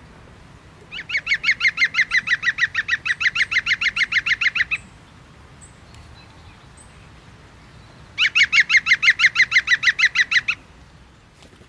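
A bird calling in two long series of rapid, evenly repeated notes, about seven a second: the first series lasts nearly four seconds, the second about two and a half.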